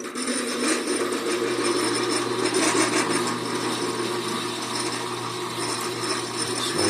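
Vevor 7x14 mini metal lathe running steadily with its motor humming, while the cutting tool faces off a piece of aluminum held in the chuck.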